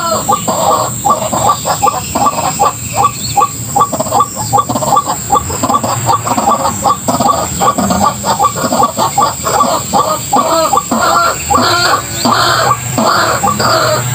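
White-breasted waterhen calling: a continuous run of short notes repeated quickly, about four a second.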